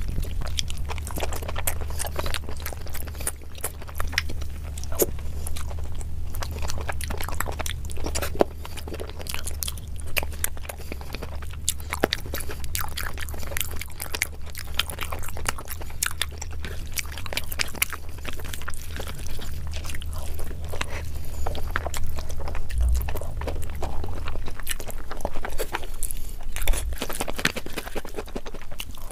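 Close-miked chewing, with many wet mouth clicks and smacks, as chicken and curried rice are eaten by hand; a steady low hum sits underneath and fades out near the end.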